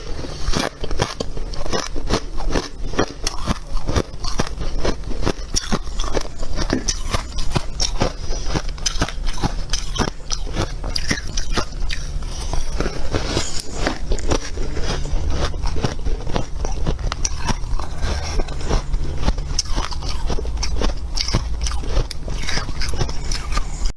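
Close-miked biting and chewing of freezer frost: dense, crunchy, squeaky crunches, several a second, without a break.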